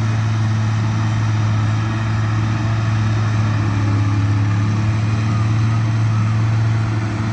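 A vehicle engine running at a steady speed, a constant low drone that neither revs up nor dies away.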